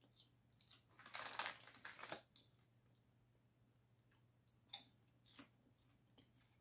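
Faint chewing of popcorn: a short run of crunching about a second in, then a few soft mouth clicks.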